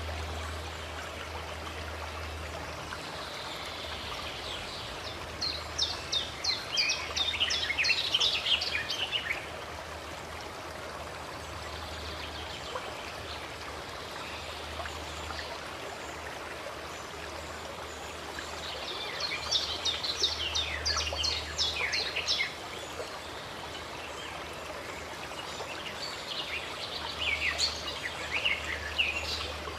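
Running water flowing steadily, with birds singing over it in three bouts of quick, sharp chirping notes: one at about a quarter of the way in, one at about two-thirds, and one near the end.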